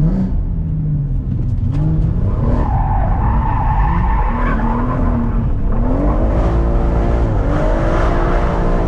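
Performance car being driven hard: the engine revs up and down several times, with the tyres squealing and skidding partway through.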